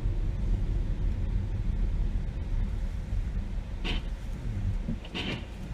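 Steady low rumble of a car driving, road and engine noise heard from inside the cabin, with brief hissy sounds about four and five seconds in.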